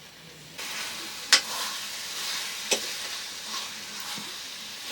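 Food frying in hot oil in a pan, the sizzle starting suddenly about half a second in, with a metal utensil knocking sharply against the pan twice while stirring.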